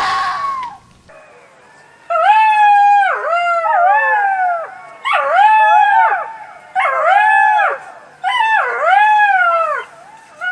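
Fox calling: one short, harsh scream-like bark right at the start, then four bouts of high whining yelps, each note rising and falling in pitch.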